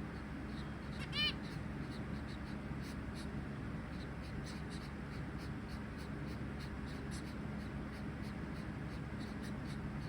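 Caged zebra finches: one short, loud call with an arched, buzzy pitch about a second in. Faint short ticks come and go throughout over a steady low hum.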